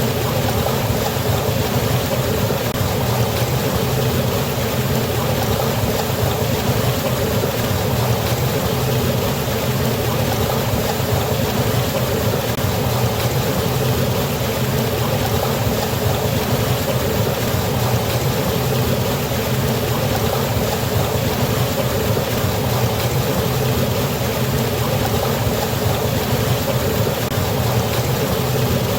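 River water pouring over a waterfall: a steady, even rush of falling water with a deep rumble underneath.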